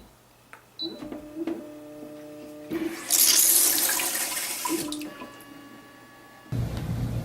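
Water running, loudest for about two seconds in the middle. Near the end it cuts to a steady low hum.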